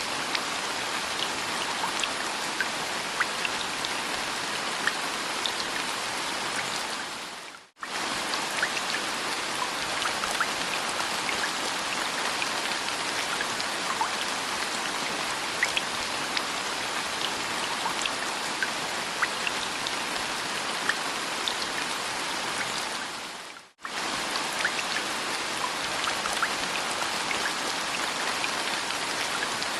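Steady rain falling, with many small drop ticks over an even hiss. It fades out briefly and comes back twice, about a quarter and three quarters of the way through.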